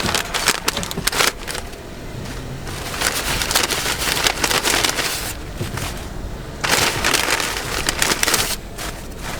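Paper fast-food bag rustling and crinkling as it is handled and opened, in irregular bursts, with a longer stretch of crinkling midway and again near the end.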